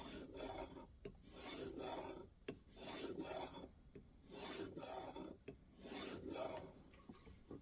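3000-grit diamond sharpening plate in a guided sharpening system, swiped along the edge of an N690 steel knife blade. The strokes are faint and rasping, about one a second, each under a second long with short quiet gaps between them. This is the final diamond-plate stage before stropping.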